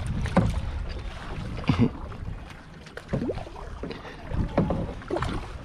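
Kayak being paddled on open water: paddle strokes and water sloshing around the hull, with wind rumbling on the microphone and a few faint distant voices.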